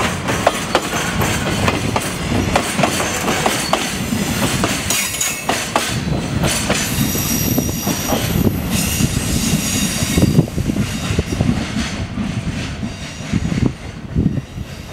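Freight train's container flatcars rolling past, the wheels clacking over the rail joints, with a high wheel squeal midway. The noise fades near the end as the last wagons draw away.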